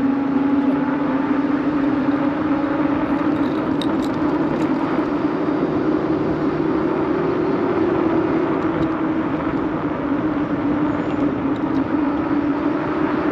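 Steady rolling hum and rushing noise from a bicycle being ridden, with a humming tone that drifts slightly up and down in pitch and a few faint clicks.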